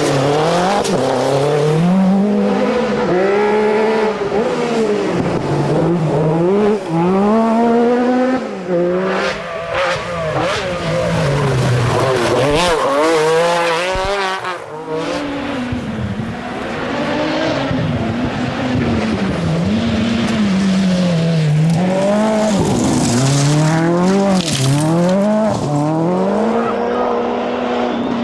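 Rally car engine revving hard, its pitch climbing and dropping again and again as it runs through a stage.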